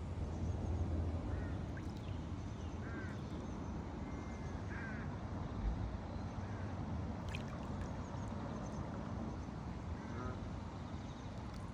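Waterfowl giving short quacking calls, a few scattered through the stretch, over a steady low rumble, with faint high chirps of small birds.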